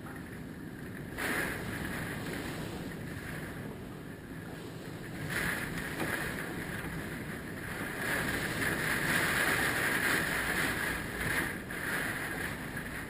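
Hurricane-force wind gusting, buffeting the microphone; gusts surge about a second in and around five seconds, and are strongest from about eight to eleven seconds.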